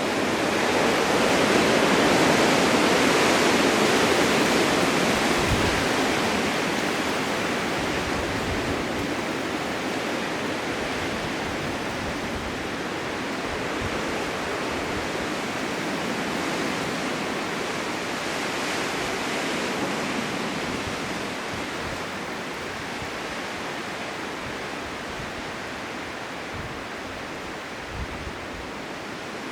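Blizzard wind blowing as a steady rush of noise, swelling into a gust a couple of seconds in and slowly easing off.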